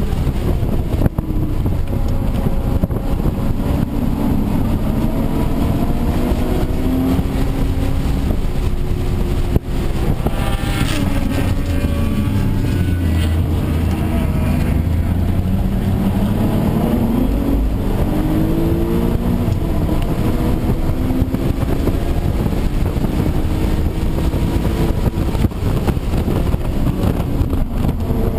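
Audi B5 S4's 2.7-litre twin-turbo V6, heard from inside the cabin under hard track driving. Its pitch climbs as the car accelerates and drops at gear changes and lift-offs, again and again, over steady wind and road noise.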